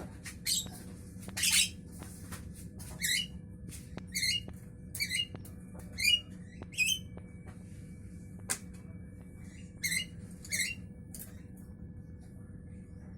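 Javan myna (jalak kebo) giving short, harsh squawking calls at irregular intervals, about a dozen in all, over a faint steady hum.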